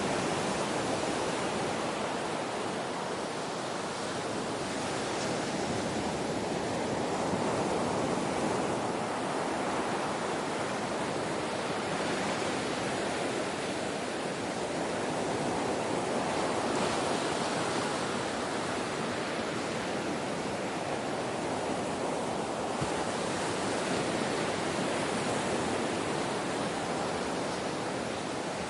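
Ocean waves washing on a shore: a continuous surf hiss that swells and eases slowly, a few times over the stretch.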